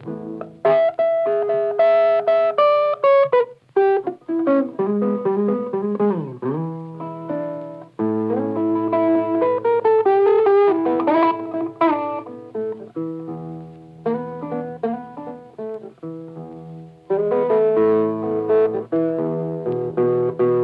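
Background music: a solo blues guitar playing picked notes and phrases with string bends.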